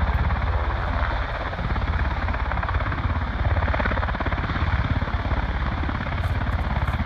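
Coastguard helicopter's rotor blades chopping rapidly and evenly over a steady, loud engine and turbine hum.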